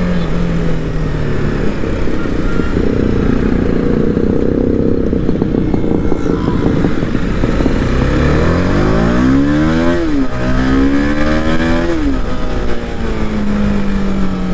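TVS Apache RR 310's single-cylinder engine running as the motorcycle is ridden. About eight seconds in it accelerates, the pitch rising, dips sharply at a gear change, rises again, and then eases off over the last couple of seconds.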